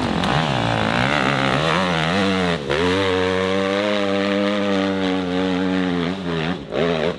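Dirt bike engine revving hard under load, wavering in pitch and dropping briefly about two and a half seconds in, then held at high revs before falling off near the end.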